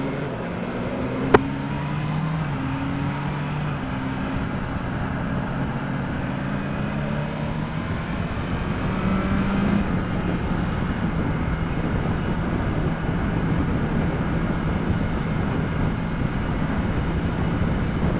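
BMW S1000R inline-four motorcycle engine with the stock exhaust, running under way; its pitch steps in the first few seconds as it changes speed. A single sharp click comes about a second in, and wind noise on the helmet microphone builds from about halfway.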